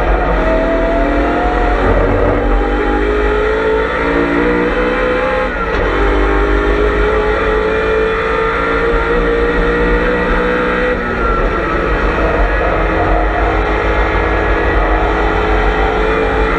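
BMW M3 E92 race car's V8 engine under hard acceleration, heard on board, its pitch climbing steadily and dropping sharply at upshifts about five and eleven seconds in.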